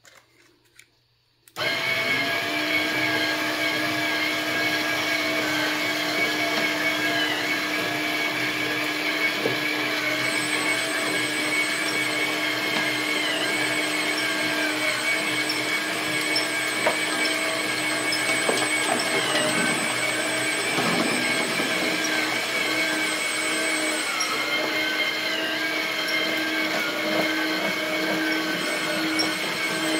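A small electric motor and gearbox on an RC construction model start up about a second and a half in and run at a steady speed with a constant whine.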